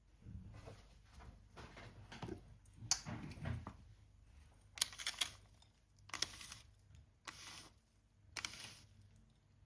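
A series of short handling sounds, brief scrapes and rustles with sharp clicks, the sharpest click about five seconds in.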